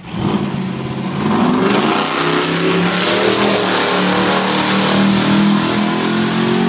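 Drag-racing car launching off the start line at full throttle, its engine revving up sharply over the first couple of seconds and then holding a loud, high note as it runs down the strip.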